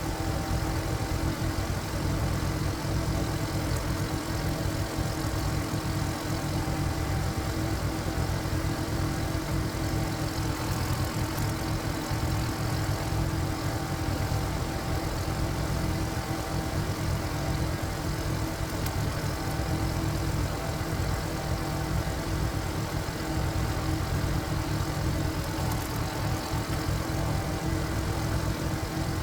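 Walking tractor's single-cylinder diesel engine running steadily at an even speed.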